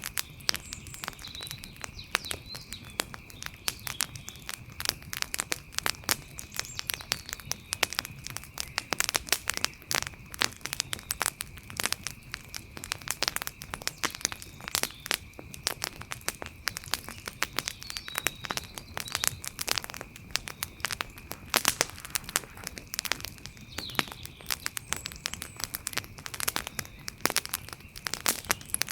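Wood campfire crackling, with frequent sharp, irregular pops and snaps.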